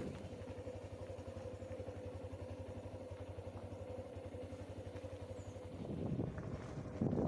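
An engine running steadily with an even, fast low pulse and a steady hum; a louder rough noise swells near the end.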